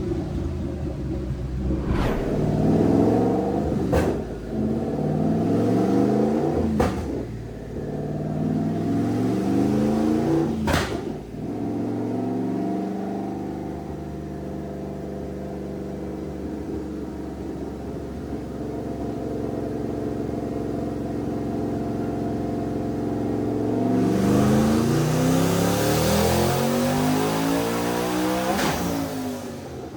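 Twin-turbocharged 2014 Mustang GT's 5.0 Coyote V8 under full throttle on a dyno, rising in pitch through several gears with a sharp break at each shift. It holds a steadier speed for a while, then makes a final rising pull with a loud rushing hiss and lets off near the end.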